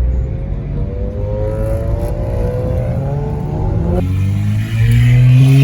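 Car engine accelerating, its pitch climbing steadily for several seconds, with a sudden change about four seconds in and another climb toward the end.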